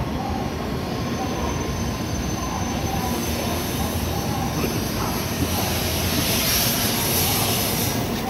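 N700A Shinkansen train pulling out of the station and gathering speed, a steady rush of running noise that grows slowly louder, with a hiss brightening from about three seconds in.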